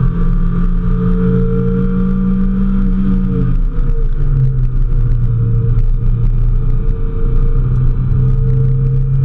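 Mazda Miata's four-cylinder engine heard from inside the cabin at track speed, with road noise underneath. Its pitch holds steady, drops about three and a half seconds in as the revs fall, then holds steady at the lower pitch.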